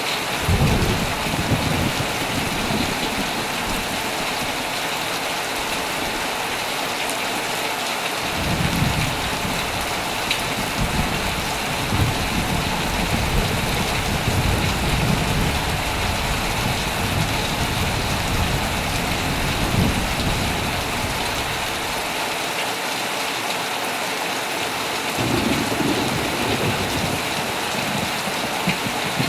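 Heavy rain falling steadily on a tent, a constant dense hiss, with low rolling thunder: a short rumble at the start, a long one from about eight seconds in that fades out around twenty seconds, and another near the end.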